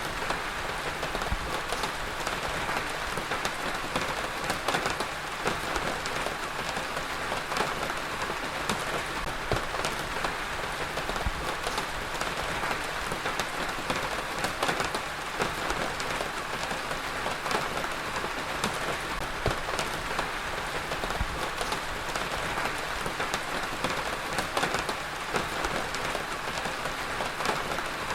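Heavy rain falling steadily on a surface, a dense even hiss with many individual drops striking.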